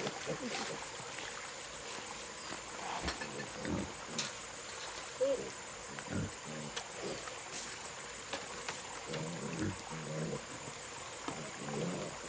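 Pigs grunting in short, irregular low calls, with a steady high insect whine behind them.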